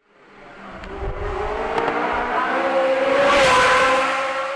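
A fast car passing with its engine at high revs. The sound grows louder to a peak about three and a half seconds in, then fades.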